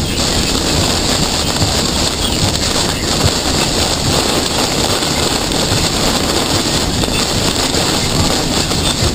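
Damaging thunderstorm wind of around 80 mph blowing hard against the microphone and the vehicle, a loud, steady rush of noise.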